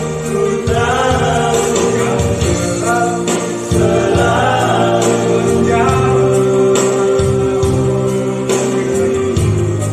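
Vocal group singing a gospel song over band accompaniment with a steady bass line; the voices waver through the first half, then hold one long note until shortly before the end.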